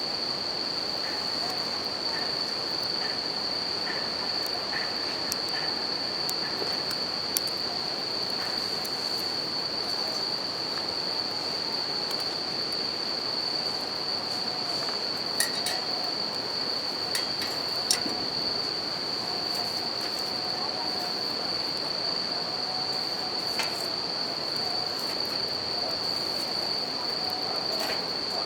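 Wood campfire crackling, with a few sharp pops, over the steady rush of a river and an unbroken high chirring of bell crickets (suzumushi).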